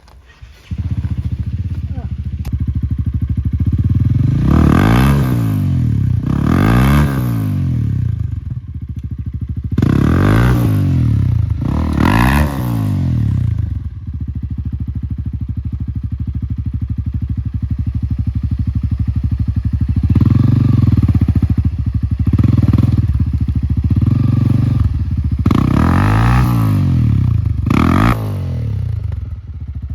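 Enduro motorcycle engine that comes in suddenly about a second in and keeps running, with the revs rising and falling sharply six times, in two pairs early on and one pair near the end.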